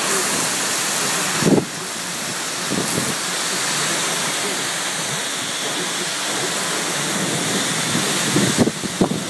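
Heavy rain pouring down in a steady, hissing downpour, with a brief louder surge about a second and a half in.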